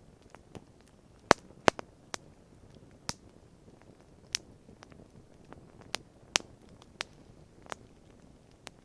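Wood campfire crackling: irregular sharp pops and snaps from the burning wood, a dozen or so, the two loudest close together about a second and a half in.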